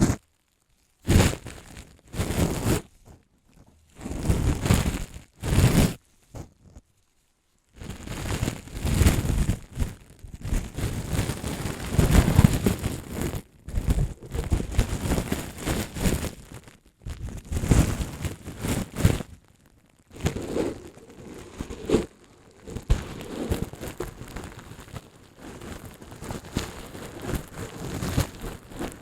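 Close-up ASMR handling of a crinkly object, crinkling and crunching. The first few seconds come in short separate bursts; after a brief pause, from about eight seconds in, it runs almost continuously with short breaks.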